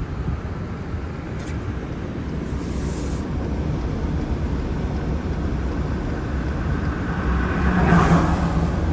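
Car driving, heard from inside: a steady low rumble of engine and road noise, with a short click about a second and a half in and a louder swell about eight seconds in.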